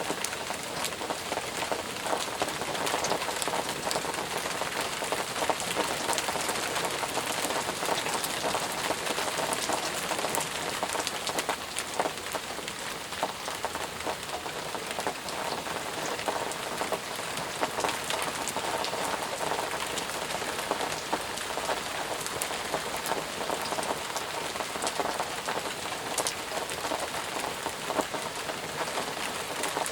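Intense rain falling steadily, with many separate drop impacts heard throughout.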